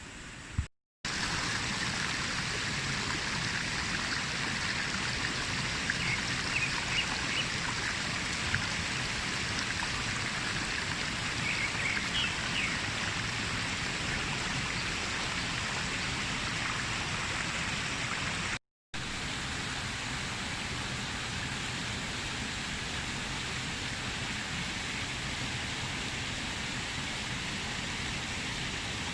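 Forest stream water rushing steadily over rocks, with faint short chirps a few times in the first half. The sound drops out briefly twice where the footage cuts.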